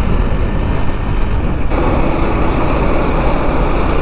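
Wind and road noise of a KTM Duke 390 motorcycle riding on a highway, with traffic around; the rush is loud and steady, and about two seconds in it grows fuller.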